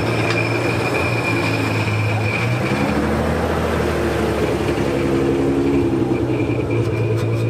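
Nissan 300ZX (Z32) engine running at low revs as the car creeps past at walking pace. The note steps a little lower about three seconds in and starts to rise near the end, with a thin high whine over it for the first few seconds.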